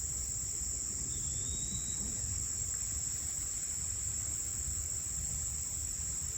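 Steady, high-pitched chorus of crickets in woodland, with one faint whistled note from an eastern wood-pewee about a second in.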